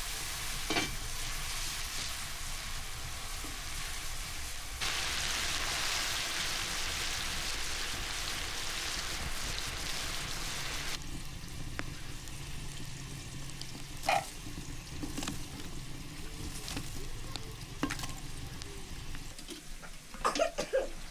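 Food frying in hot oil, a steady sizzle that gets louder about five seconds in and drops back about eleven seconds in, with a few sharp clicks and knocks near the end.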